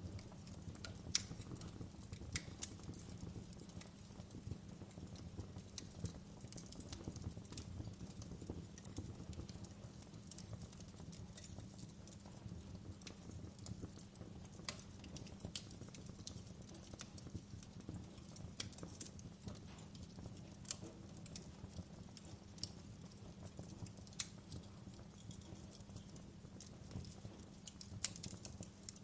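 Wood fire crackling: irregular sharp pops and snaps, a few of them louder, over a low steady rumble of the burning fire.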